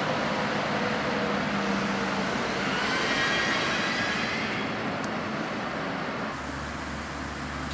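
A double-deck TGV high-speed electric train near the signals, over a steady rumble of city and rail traffic. About three seconds in, a brief high electric whine rises and falls, and a low hum sets in near the end.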